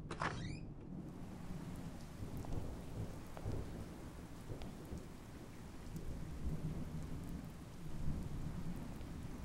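Steady rain with a low rumble of thunder, opening with a brief sharp crackle.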